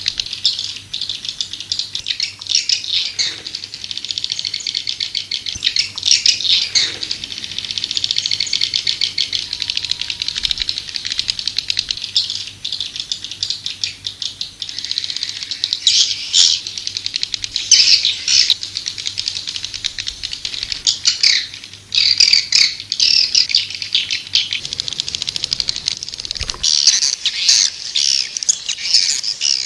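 Swiftlets chattering: a dense, fast twittering of many birds with louder flurries throughout. It is the kind of swiftlet call recording played to lure swiftlets into a nesting house.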